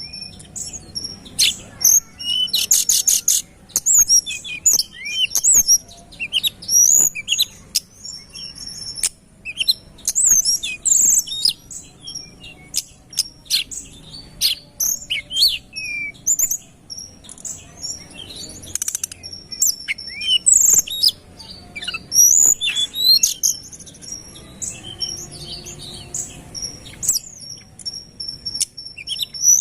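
Tledekan gunung songbird singing in rapid, dense runs of high, sharp chirps and whistles, with a brief fast trill about three seconds in.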